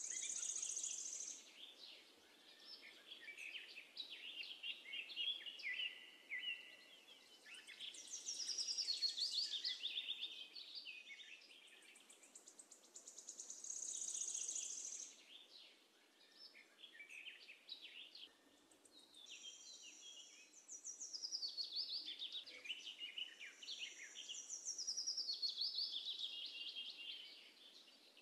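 Birds singing: repeated phrases of high chirps and quick trills every few seconds, with short lulls between.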